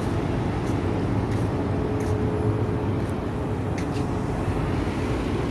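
Steady low rumble of outdoor city background noise with a faint steady hum.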